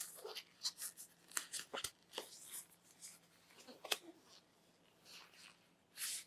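Phone box and packaging being opened and handled: irregular faint rustles, crinkles and sharp clicks, with a longer rustle near the end.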